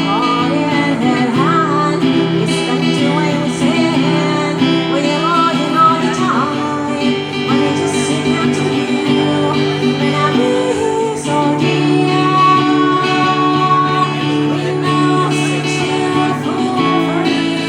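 Live band music led by strummed acoustic guitar, holding steady chords, with a melody line that bends in pitch during the first few seconds.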